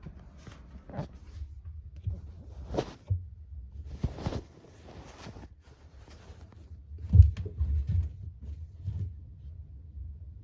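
Handling noise: a string of light knocks, clicks and short scrapes, with a heavier low thump about seven seconds in.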